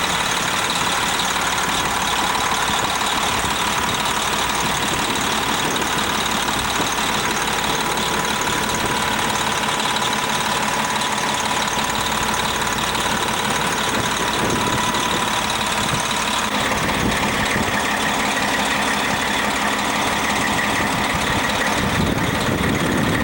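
Detroit Diesel Series 60 inline-six in a Wagner articulated dump truck idling steadily.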